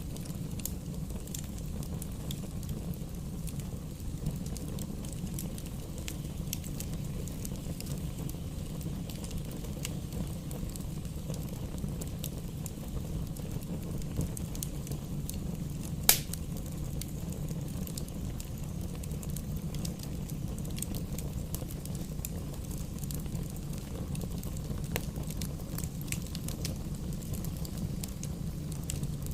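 Bonfire burning: a steady low rumble of flame with scattered wood crackles throughout, and one sharp, loud pop about sixteen seconds in.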